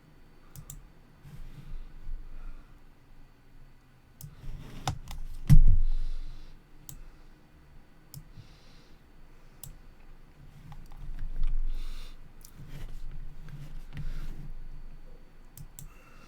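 Scattered computer keyboard and mouse clicks, with one louder knock about five and a half seconds in.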